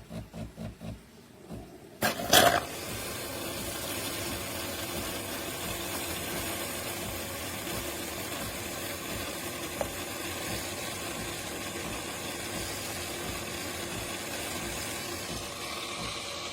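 De'Longhi Rivelia bean-to-cup espresso machine working through its brew cycle. A few quick rhythmic pulses come first, then a sudden loud burst about two seconds in, then steady mechanical running.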